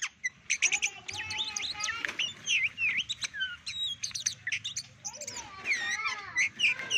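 Oriental magpie-robin (kacer) singing: a fast, varied run of whistles, chirps and swooping notes with hardly a pause.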